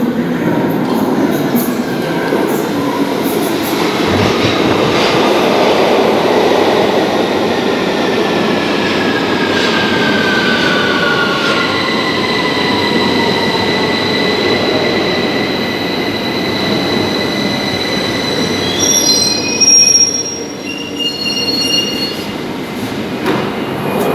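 London Underground Victoria line 2009 Stock train slowing into the platform: running noise with a motor whine falling in pitch as it decelerates. Near the end come high brake squeals of several tones, and the noise drops as the train comes to a stop.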